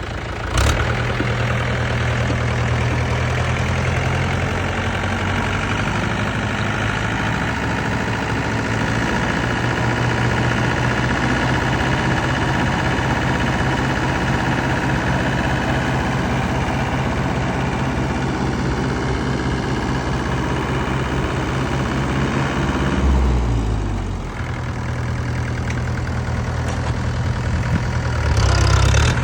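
Heavy diesel engine running steadily at working machinery, with a sharp click about half a second in, a brief deeper surge about 23 seconds in followed by a short drop in level, and another surge near the end.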